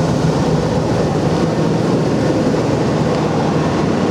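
1996 Ford F-250 pickup engine idling steadily, shortly after a cold start. It runs evenly with no tapping or knocking, the sign of a healthy engine.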